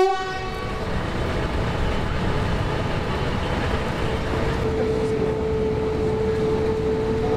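Train running past with a steady rumble; a steady single tone joins about halfway through.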